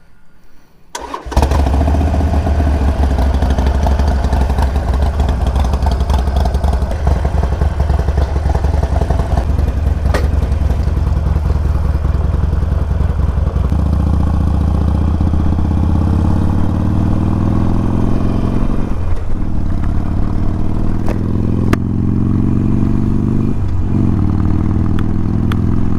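Harley-Davidson Iron 1200's air-cooled V-twin starting about a second in and running steadily. It then pulls away and accelerates, rising in pitch, with two upshifts heard as brief dips.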